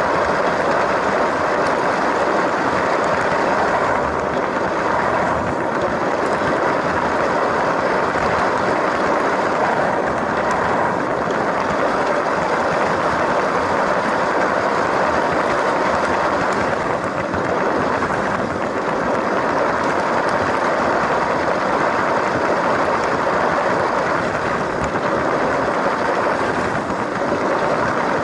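LEGO train's electric motor and plastic wheels running over plastic track: a steady whirring rattle with small dips in level.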